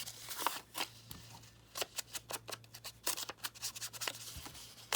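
Paper being handled and worked at a craft table: a run of quick, crisp, irregular clicks and crinkles.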